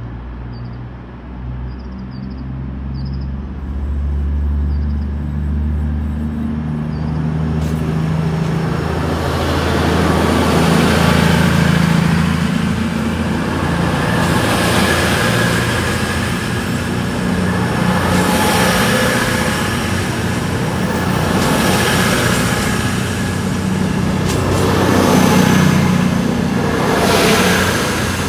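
CrossCountry diesel passenger train approaching with its engines droning, then passing close by at speed. The rushing wheel-on-rail noise swells each time a coach's wheels go past. Birds chirp faintly at the start.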